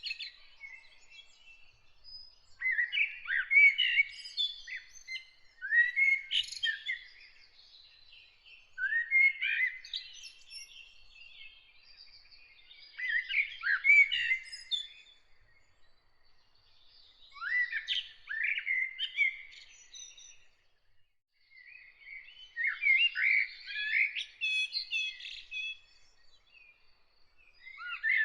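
A songbird singing, repeating short warbled phrases of one to two seconds every four seconds or so, with faint chirps between the phrases.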